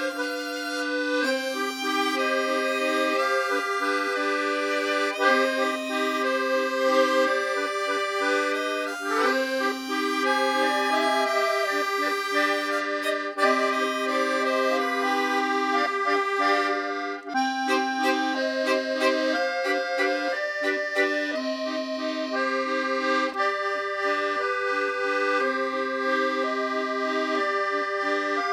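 Instrumental accordion music: a melody moving in steps over held lower notes, with a brief break about seventeen seconds in.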